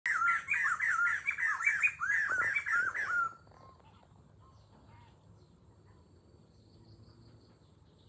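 A bird singing close and loud: a fast run of repeated clear notes that swoop down and up, about three a second. It stops abruptly a little over three seconds in, leaving only a faint background of distant calls.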